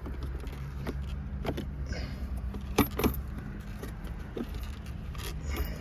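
Scattered clicks, rattles and light knocks of parts being handled in a car, two sharper clicks a little under a second apart near the middle, over a steady low hum.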